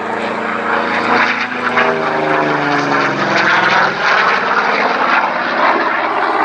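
Aircraft making a loud flypast, its engine note dropping in pitch as it passes.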